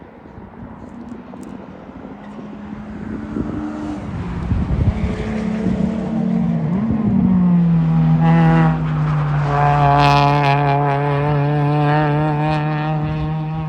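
Sports car engine growing louder, then holding a steady, high drone from about eight seconds in.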